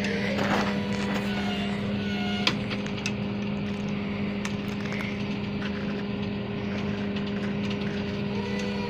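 A vehicle engine idling, a steady low hum that holds one constant pitch throughout, with a few faint ticks over it.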